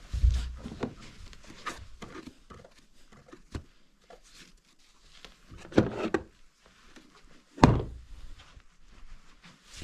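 Irregular knocks and thuds in a small room: a cluster of heavier hits about six seconds in, and the loudest, a single sharp thud, shortly after.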